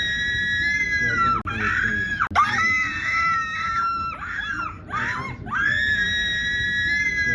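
A person screaming: three long, very high-pitched screams, each held for a second or more, with short breaks between them.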